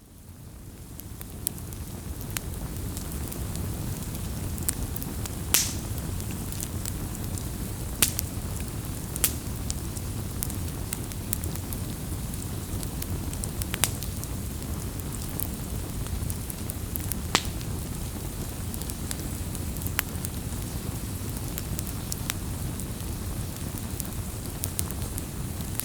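Wood campfire burning: a steady low rush of flames with sharp, scattered crackles and pops, about half a dozen standing out. The sound fades in over the first second or so.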